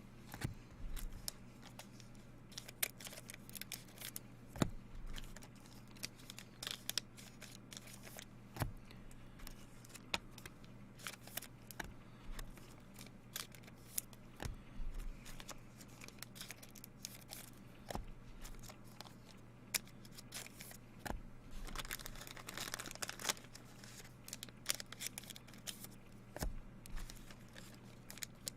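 Baseball trading cards and pack wrappers being handled: scattered light clicks and slides of cards, with a longer stretch of wrapper crinkling and tearing a little past two-thirds of the way through. A steady low electrical hum runs underneath.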